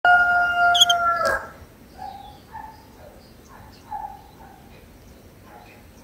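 A loud, steady pitched tone for just over a second, cut off by a sharp click. It is followed by faint, short, scattered chirps from white-eye nestlings and their parent at the nest as the chicks are fed.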